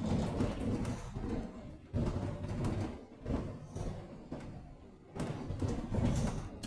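Inside a Thameslink Class 700 electric train carriage running at speed: a low rumble that swells and fades in uneven surges every second or two, with dull thuds.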